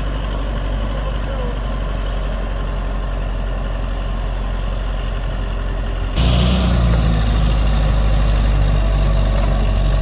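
Heavy earthmoving machine's diesel engine running steadily, stepping up abruptly to a louder, deeper level about six seconds in.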